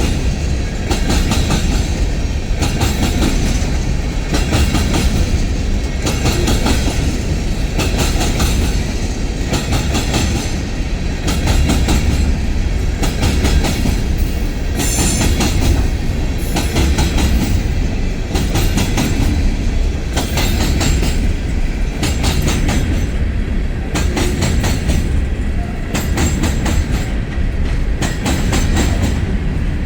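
Freight cars of a stone train rolling past, steel wheels clicking rapidly over rail joints above a heavy, steady rumble.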